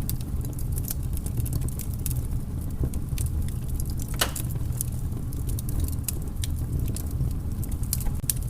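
Wood fire crackling: irregular sharp pops and snaps, one stronger snap about four seconds in, over a steady low rumble.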